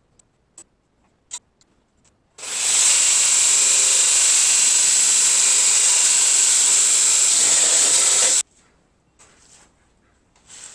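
A few light clicks, then a power tool runs at a steady pitch for about six seconds, starting and stopping sharply.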